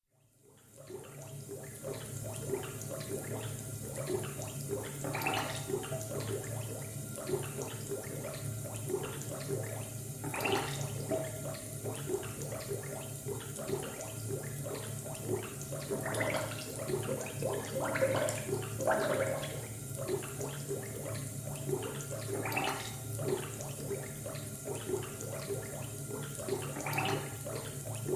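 Laboratory ambience: a steady low equipment hum with bubbling, gurgling liquid, with a burst of gurgling every few seconds. It fades in over the first couple of seconds.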